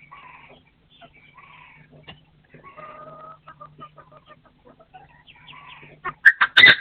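Partridge calling: a series of soft clucking notes, then loud, sharp calls near the end.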